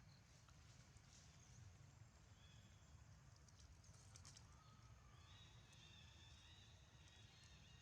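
Near silence: a faint low background rumble, with a few faint ticks and faint high steady tones in the second half.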